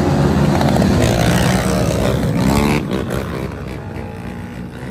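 Racing engines running loud, one revving up in a rising whine before the sound falls away about three seconds in.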